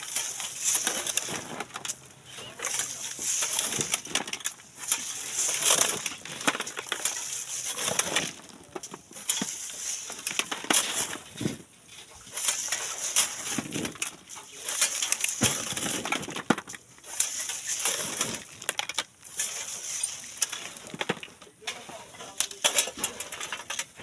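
Hand tools digging and scraping into sand and gravel, giving an irregular run of gritty scrapes and crunches.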